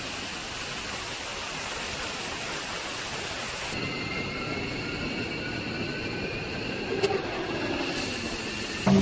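Jet aircraft engine noise: a steady rushing roar with faint high turbine whines that slowly shift in pitch. The sound changes abruptly about four seconds in, and there is a single sharp click a few seconds later.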